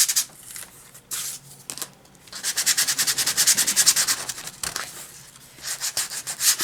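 Very fine grit sandpaper rubbed by hand over a painted wooden cutout in quick back-and-forth strokes, in several spells with short pauses, lightly smoothing lumpy paint flat.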